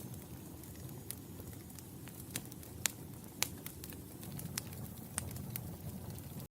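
Wood fire crackling in a fireplace: irregular sharp pops and snaps over a low steady rumble of burning flames, with a few louder pops about three seconds in. The sound cuts out for an instant right at the end.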